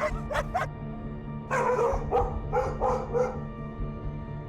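Puppies yipping and barking in short bursts, a few at the start and a run of them from about a second and a half in, over steady background music.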